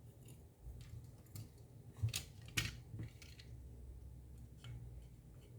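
A handful of light clicks and taps from small plastic and metal controller parts and wire being handled, the two loudest about two and two and a half seconds in, over a faint steady low hum.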